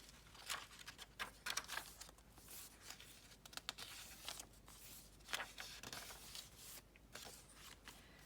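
Paper pages of a thick handmade junk journal being turned and handled, with faint, irregular rustles and brushes of paper.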